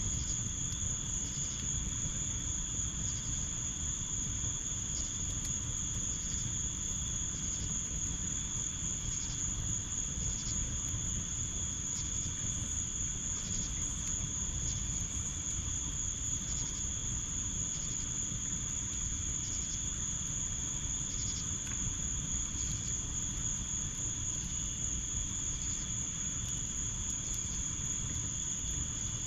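Crickets trilling in a steady, unbroken high chorus, with a fainter pulse repeating about once a second from another insect. A steady low rumble runs underneath.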